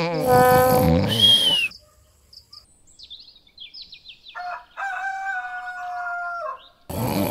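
Cartoon snoring sound effect, a rasping snore ending in a falling whistle. After a short gap come high bird chirps, then a rooster crowing in one held crow of about two seconds, as a morning wake-up cue. The snore starts again near the end.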